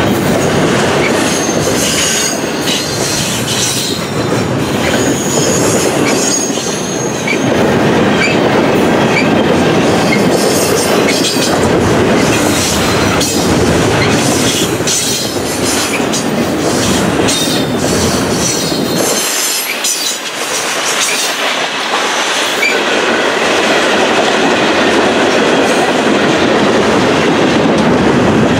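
Double-stack intermodal well cars of a long freight train rolling past at track speed: a loud, steady rumble and rattle of steel wheels on rail, with a run of clicks over the rail joints and some high wheel squeal. The deep rumble eases briefly about two-thirds through.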